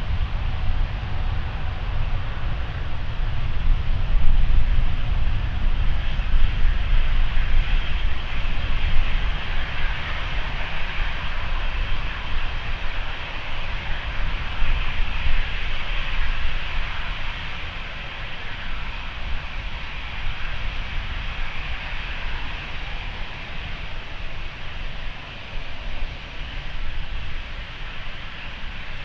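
British Airways Boeing 777-200ER jet engines at takeoff power as the twinjet departs: a steady low rumble with a broad hiss, loudest in the first half and then slowly fading as it moves away.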